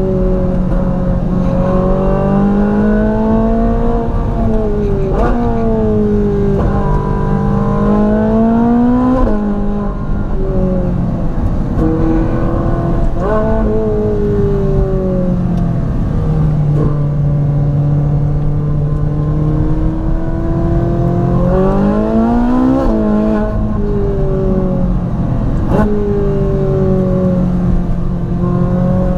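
Ferrari 458 Spider's naturally aspirated V8 pulling hard, its pitch rising under acceleration and dropping sharply at several upshifts, with a steadier cruising stretch in the middle.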